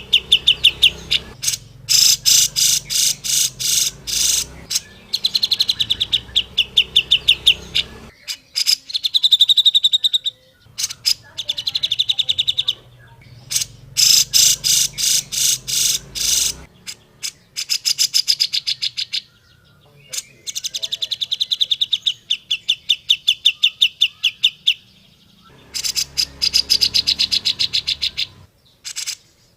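Cucak jenggot (brown-cheeked bulbul) calling: bouts of rapid, evenly repeated high chattering notes, each bout lasting a few seconds, with short pauses between.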